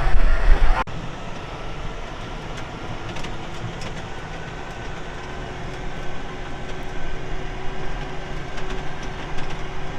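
Wind buffets the microphone for the first second. After a sudden cut, a tractor engine runs steadily.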